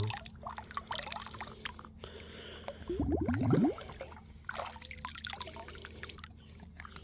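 Creek water trickling and dripping, with small splashes and knocks, and a brief rising gurgle a little after three seconds in.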